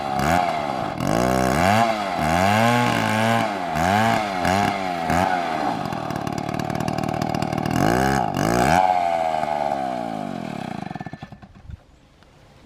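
Large MS720 chainsaw's two-stroke engine revved up and down repeatedly, then settling, revved once more, and slowing with falling pitch until it stops about eleven seconds in.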